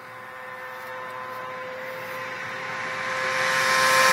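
Kawasaki ZX-6R inline-four sport bike approaching at high, steady revs, its engine note holding pitch and growing steadily louder.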